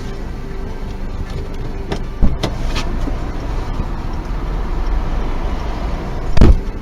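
Car driving, with steady low road and engine noise, and two sharp thumps: one about two seconds in and a louder one near the end.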